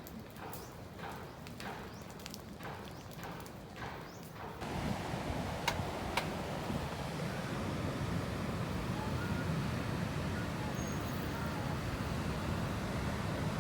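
A run of irregular light knocks and clicks, then about four and a half seconds in a steady low rush of wind on the microphone, with two sharp clicks shortly after.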